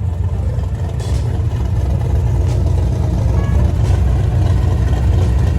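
Car engine running at low speed, a steady, deep exhaust rumble that grows a little louder about two seconds in.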